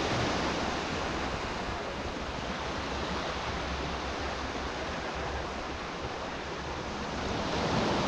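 Ocean surf washing onto the shore in a steady rush, with an uneven low rumble of wind on the microphone.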